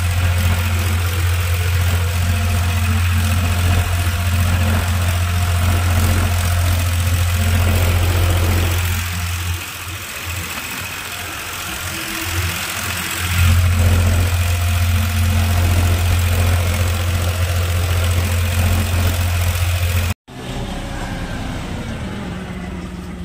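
Tractor's diesel engine idling with a steady deep hum. Its low note fades for a few seconds midway, then comes back louder. Near the end it cuts abruptly to a quieter engine sound.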